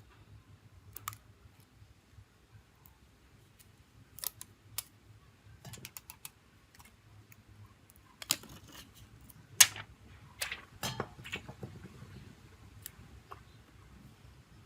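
Irregular small clicks and taps of parts and tools being handled while a smartphone is worked on. The clicks are sparse at first and come thicker and louder in the second half.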